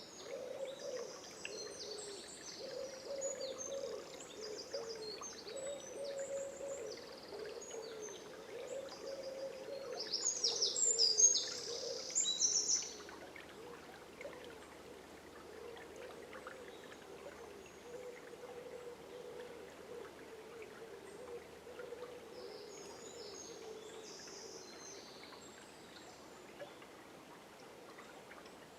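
Songbirds singing over the steady flow of a river. High, chirping phrases come and go, with a loud rapid trill near the middle.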